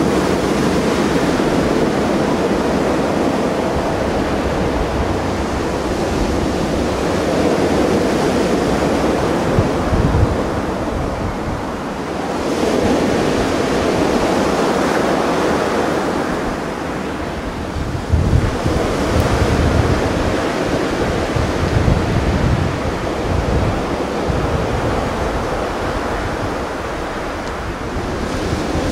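Sea waves washing onto the shore, the surf swelling and easing every several seconds. Wind buffets the microphone in gusts about ten seconds in and again around eighteen to twenty-three seconds.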